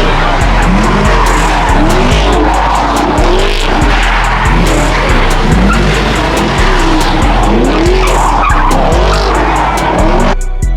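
Car tyres squealing and engines revving in a drift or burnout, laid over a hip-hop beat with heavy bass and steady hi-hats. The car noise cuts off suddenly near the end, leaving only the beat.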